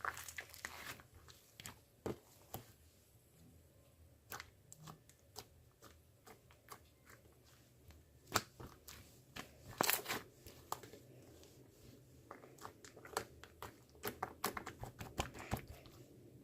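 Close, quiet, irregular crackling and clicking: many small crisp snaps at uneven spacing, with a few louder ones about eight and ten seconds in.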